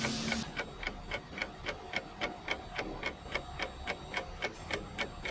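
Steady, even ticking, several short ticks a second, like a clock. A frying sizzle cuts off abruptly just after the start.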